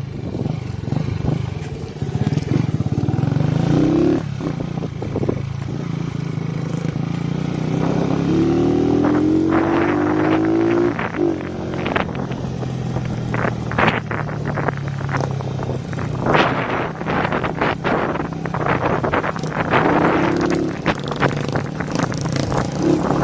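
Several motorcycles with straight-pipe exhausts riding, engines revving up and down, with one clear rising rev about a third of the way in and sharp pops throughout.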